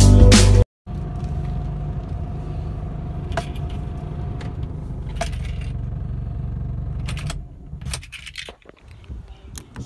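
Music cuts off in the first second, then a car engine idles, heard from inside the cabin, with a few light clicks. About seven and a half seconds in the engine is switched off and the hum stops, leaving keys jangling and small clicks.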